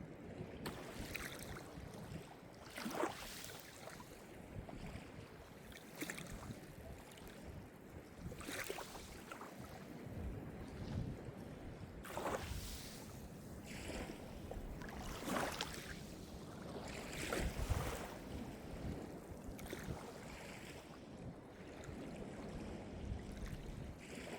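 Calm Mediterranean surf: small waves break and splash against the shore every few seconds over a steady wash of water, with a low rumble underneath.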